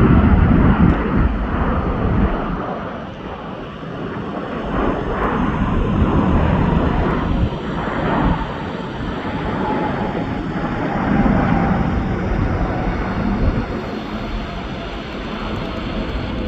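Jet airliner's engines at high thrust during departure: a loud, steady rushing roar that swells and eases, with a faint whine that falls slightly in pitch in the second half.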